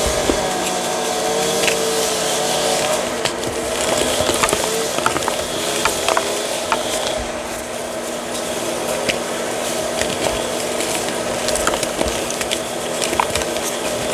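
Gritty reformed chalk being crushed and crumbled: a dense crackling with many sharp crunches, over a steady background hum.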